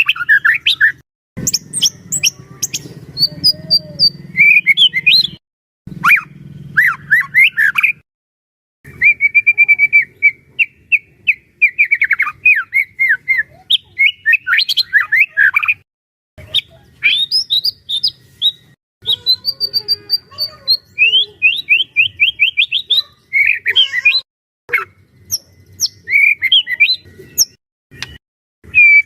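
White-rumped shama (murai batu) in full, continuous song. It runs phrase after phrase of varied whistles, fast repeated note series and harsh notes, with short breaks between phrases.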